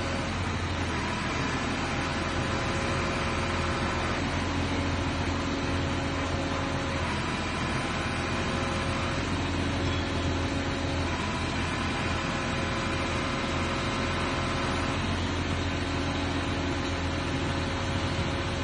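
Truck-mounted crane running: the truck's engine hums steadily under the whine of the crane's hydraulics, whose tone changes every few seconds as different crane movements are worked.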